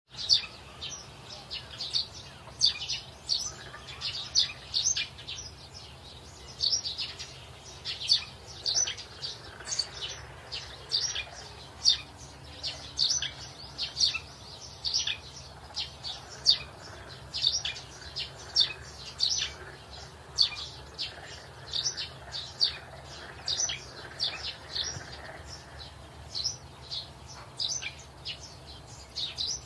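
Birds chirping: short, sharp, high chirps repeated over and over, several a second with brief gaps.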